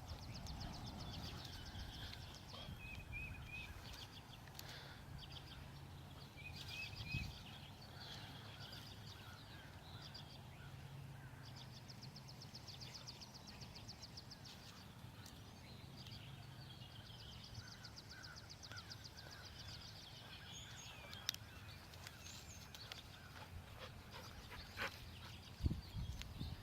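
Faint outdoor background with birds singing, including several high, rapid trills of two to three seconds each, over a low steady hum, with a couple of sharp clicks later on.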